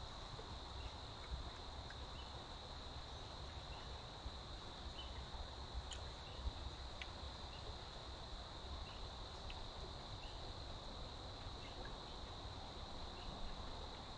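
Steady high-pitched drone of insects, with short faint chirps repeating about once a second over a low rumble.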